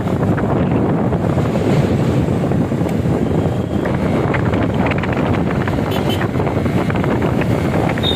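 Wind buffeting the microphone on a moving motorcycle, a steady loud rush heaviest in the low range, with the bike's engine and road noise mixed in.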